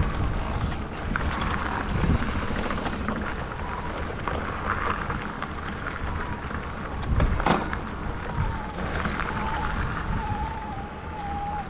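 Noise of an e-bike being ridden: wind rumbling on the microphone with tyre and rattle noise, a sharp knock about seven and a half seconds in, and a faint wavering whine near the end.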